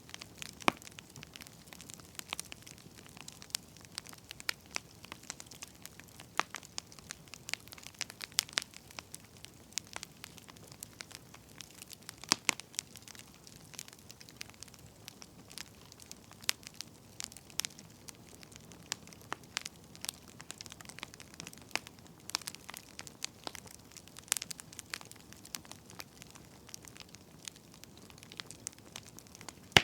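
Wood fire crackling: a steady run of irregular small snaps and pops over a faint hiss, with a few sharper cracks standing out, one about twelve seconds in and another near twenty-four seconds.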